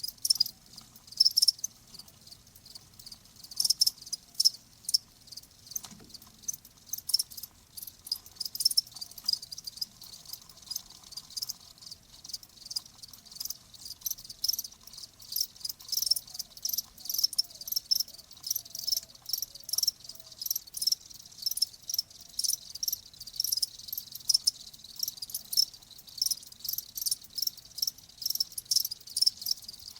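Crickets chirping: high-pitched chirps repeated rapidly, several a second, overlapping and steady throughout.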